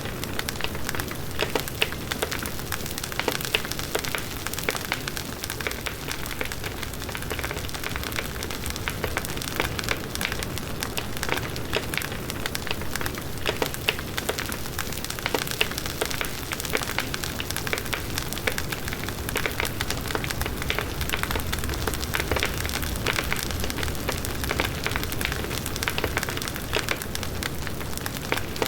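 Large wood bonfire burning, the wood crackling with a dense scatter of sharp pops over the steady rush of the flames.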